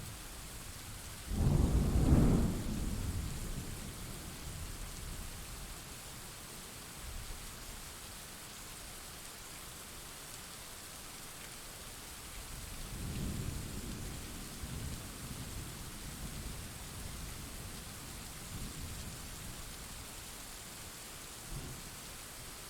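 Steady heavy rain with thunder: a loud, sudden thunderclap about a second and a half in that rumbles away over several seconds, and a second, softer roll of thunder about halfway through.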